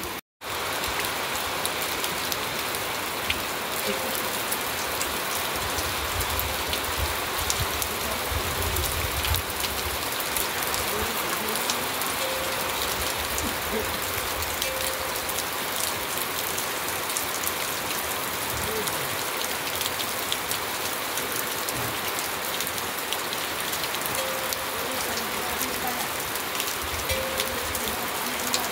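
Steady rain falling on muddy ground and village roofs, with many separate drops hitting close by. The sound cuts out for a moment just at the start.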